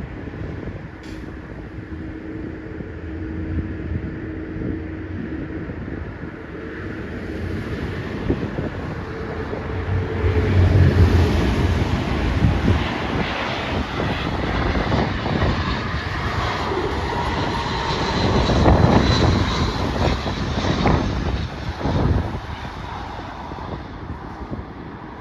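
Jet airliner coming in to land passes close by, its engine noise building, peaking and fading with a faint whine, while gusts of wind buffet the microphone.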